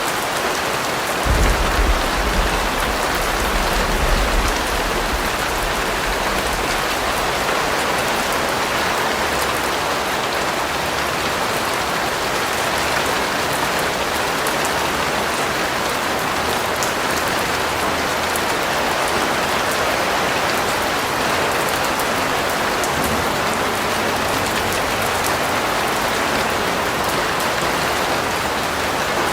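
Steady rain falling on a surface, an even hiss of drops. A low rumble comes in about a second in and fades away over the next few seconds.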